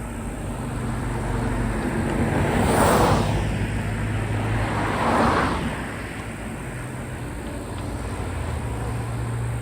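Train running past a railroad grade crossing: a steady low engine hum with two loud rushes of noise, about 3 and 5 seconds in, as it goes by.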